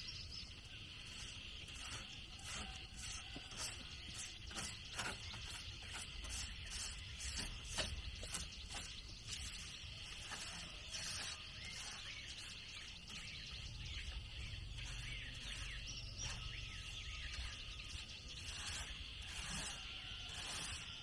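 Steady high-pitched drone of insects, with many small clicks and knocks scattered through it.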